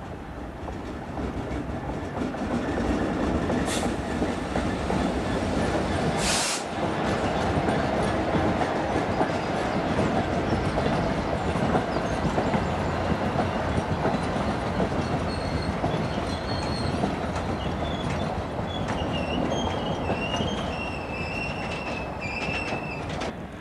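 A Class 66 diesel locomotive's two-stroke EMD engine passing, followed by a train of empty coal hopper wagons rolling by with a steady clickety-clack of wheels over the rail joints. Two brief hisses come about four and six seconds in, and near the end the wagon wheels squeal on the curve in a wavering high ring.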